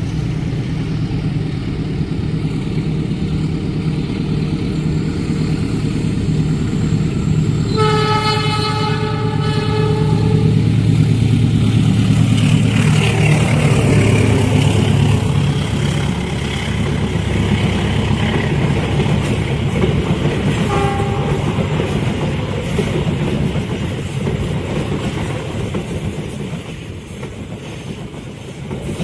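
Diesel-hauled train passing: a steady low engine drone and rolling wheels on the rails, with a horn blast about eight seconds in lasting roughly two seconds and a short second toot around twenty seconds in.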